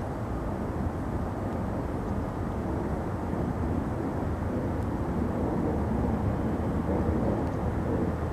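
Distant Boeing 767 jet airliner passing high overhead: a steady low engine rumble that grows a little louder in the second half.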